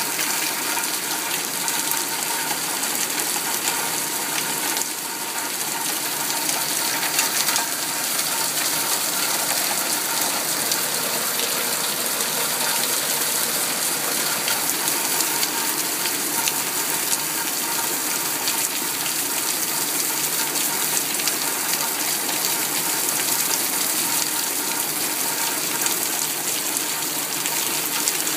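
Rainstorm: heavy rain falling steadily, a dense, unbroken patter of countless drop impacts.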